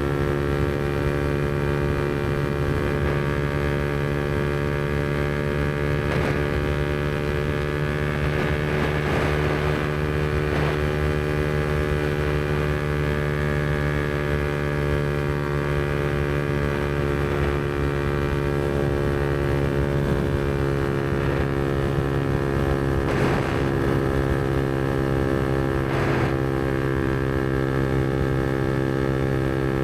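Yamaha MT-125's single-cylinder four-stroke engine breathing through a Black Widow aftermarket exhaust, running at steady revs while cruising. There are a few brief knocks along the way.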